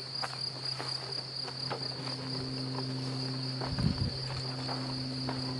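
A swarm of honey bees buzzing steadily, with a steady high insect trill over it. Scattered light clicks and a dull thump about four seconds in come from hive parts being handled.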